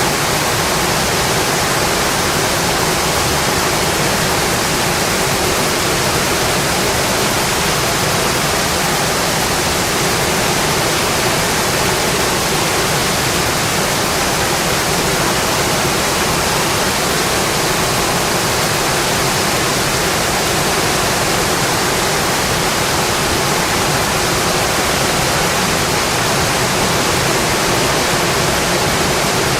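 Steady, dense rainfall, an even hiss with no separate drops or thunder standing out.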